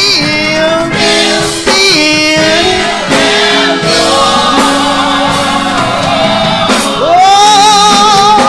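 Gospel singing with instrumental accompaniment: a lead voice stretches the word "still" over several bars, with choir voices behind it and a long held note with vibrato near the end.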